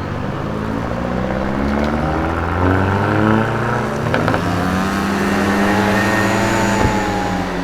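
Hyundai i30 N's turbocharged four-cylinder engine accelerating: the engine note rises over a couple of seconds, then holds steady at a higher pitch, with a few sharp clicks partway through.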